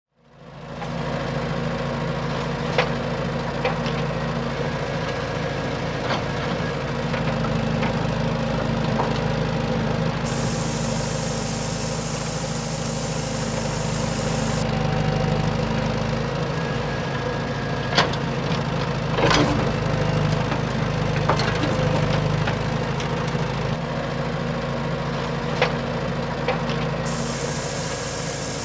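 A small DIY mini tractor engine running steadily, with a few sharp clicks and knocks over the top.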